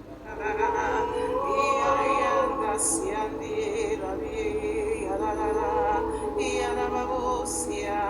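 Slow worship music with a steady low drone, and a voice singing long held, wavering notes of wordless syllables in tongues, after a brief lull at the start.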